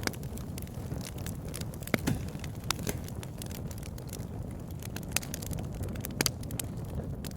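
Wood fire crackling in a fireplace: sharp, irregular pops and snaps over a steady low rushing background.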